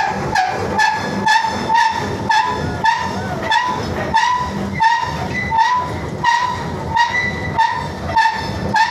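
Rail-unloading train moving slowly, with a metal squeak in two pitches repeating about three times a second, from the rollers and steel as the rails slide off.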